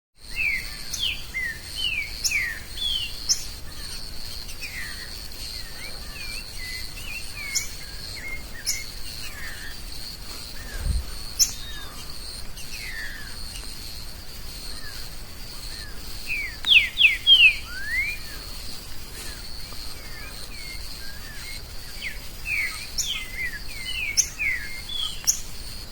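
Green-winged saltator (trinca-ferro) singing, phrases of slurred, mostly falling whistled notes, with the loudest burst about two-thirds of the way through. A steady high insect drone runs underneath.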